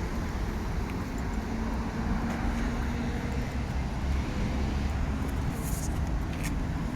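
Steady rumble of road traffic passing, with a brief hiss near the end.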